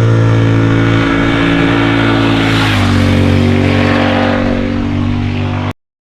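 Triumph Thruxton RS 1200 cc parallel-twin engine running loud and steady at constant revs. Its pitch steps down slightly about three seconds in, and the sound cuts off suddenly near the end.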